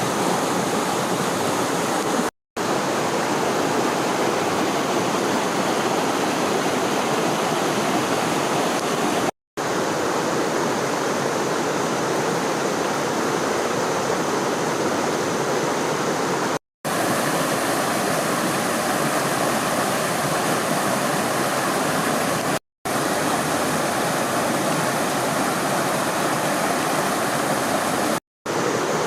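Rushing water of a stream below a waterfall, a steady loud rush. It cuts out for a split second five times.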